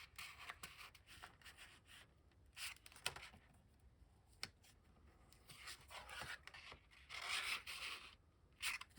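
Faint handling of paper journal pages and cardstock: scattered light taps and rustles, with a longer rubbing, sliding sound about seven seconds in.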